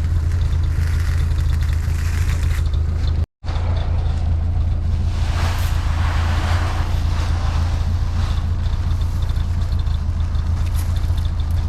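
Ford 8N tractor engine running steadily under way. The sound cuts out briefly about three seconds in, then carries on the same.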